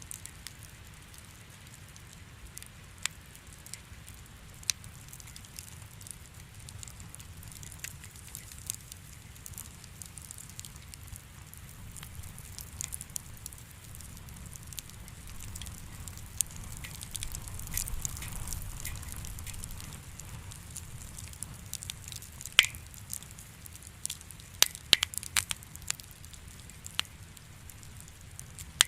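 Wood fire in a fireplace crackling over a steady low rumble, with scattered sharp pops; near the end comes a quick run of louder pops.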